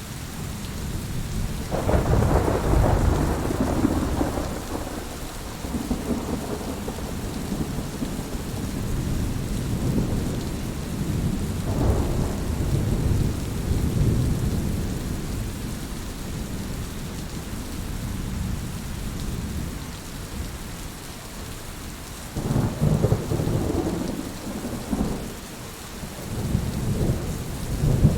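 Heavy rain falling steadily, with low rumbles of thunder swelling and fading, strongest a couple of seconds in and again near the end.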